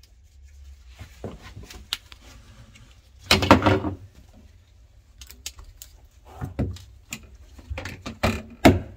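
Clicks, knocks and rattles of a small plastic device and its wiring being worked loose from behind a car's dashboard. A louder rattle comes about three and a half seconds in and a run of knocks near the end.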